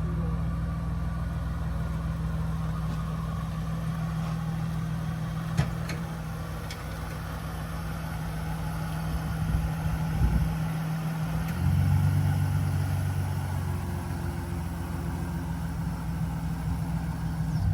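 Muscle car engine idling steadily, with a single sharp click about five and a half seconds in. About twelve seconds in, the engine note shifts and grows louder.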